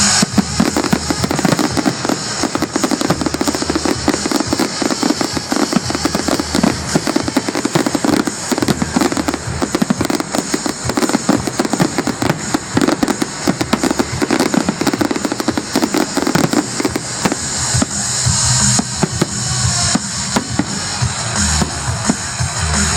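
Fireworks going off in rapid succession, a dense run of bangs and crackles, over loud show music.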